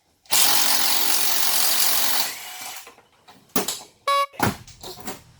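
Power tool, an impact driver on a bus seat bolt, runs in one burst of about two seconds and then winds down. A few sharp clicks and a brief high squeak follow.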